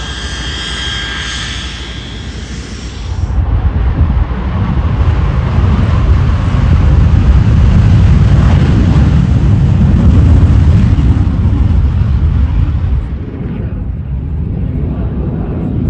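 Aircraft engine noise: a steady high whine for the first few seconds, then, after a cut, a loud low rumble that builds and eases off near the end.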